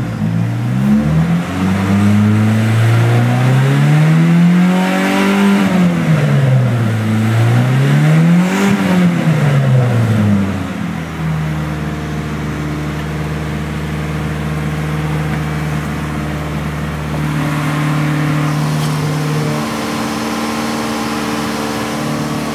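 Turbocharged 2.0-litre inline-four (Mitsubishi 4G63T) of a DSM rally car revving: a few quick blips, then two long revs up and back down, before settling into a steady idle about halfway through.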